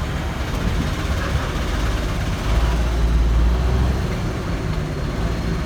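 Kenworth T800 truck's diesel engine running while driving, a steady low rumble with road noise that swells for a second or two midway.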